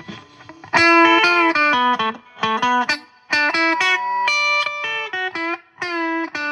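Clean electric guitar played through a JHS Ross compressor into a Boss Katana amp, with the compressor's level just turned up. It plays a phrase of single picked notes in three short runs, and the last note is held and rings on.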